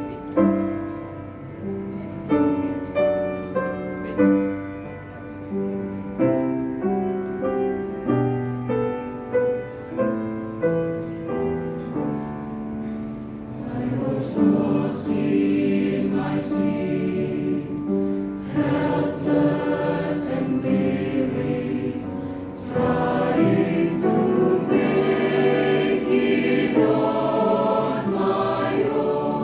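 Mixed choir singing a sacred anthem with instrumental accompaniment. At first an instrument plays alone in separate decaying notes; about halfway the choir comes in on long held notes, growing louder near the end.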